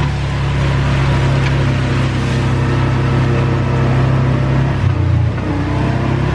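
ATV engine running steadily under a loud hiss of heavy tropical rain, its note dipping briefly about five seconds in.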